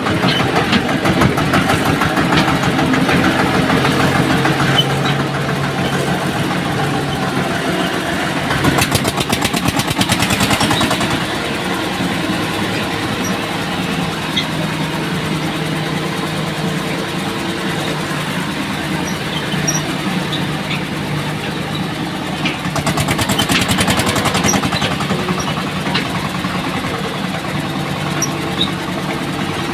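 Diesel tractor engine running steadily, with two louder stretches of rapid engine pulses about nine and twenty-three seconds in.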